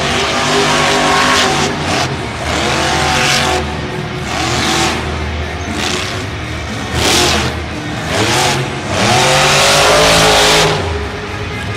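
Monster truck engine revving hard in repeated throttle blasts, the pitch climbing and dropping with each burst.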